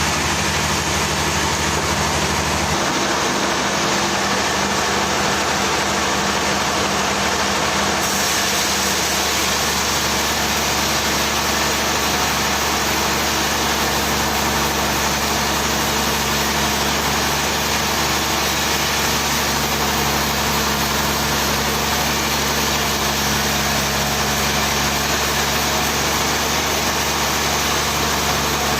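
Sawmill machinery running steadily: an engine hum under a dense, even hiss. The low hum shifts about three seconds in, and the high hiss changes again at about eight seconds.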